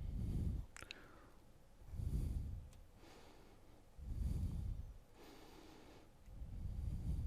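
A person breathing close to the microphone: four slow breaths about two seconds apart, with a couple of faint clicks about a second in.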